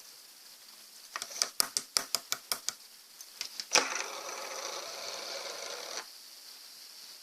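Slime being worked by hand: a quick run of sharp pops and clicks about a second in, a few more, then a couple of seconds of steady crackling as it is pressed and stretched, cutting off suddenly about six seconds in.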